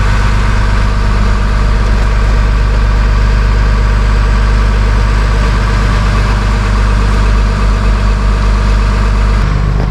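A vehicle engine idling steadily with a loud, even low hum.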